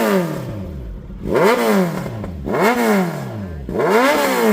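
Kawasaki Z900's inline-four engine revved in quick throttle blips about every 1.3 s. Each rev rises sharply, then falls away to idle.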